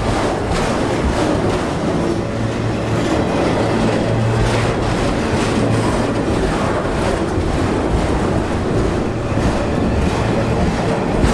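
Freight train of enclosed autorack cars rolling past: a steady rumble and rattle of steel wheels on rail, with repeated clicks and knocks as the wheels pass.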